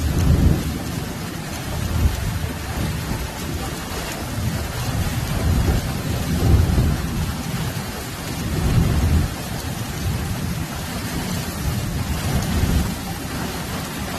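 Heavy rain falling steadily in a severe storm, with low rumbles swelling and fading every few seconds.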